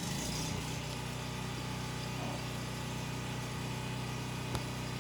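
A steady motor hum with a low, even pitched drone, and a single sharp click near the end.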